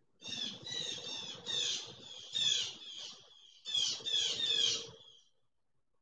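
Birds calling in several bursts of short, quick, falling squawks, which stop about five seconds in.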